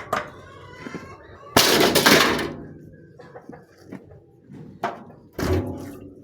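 Loud clattering and scraping of a tight cover being pulled off a large pot of boiled herbs, once about a second and a half in and again near the end.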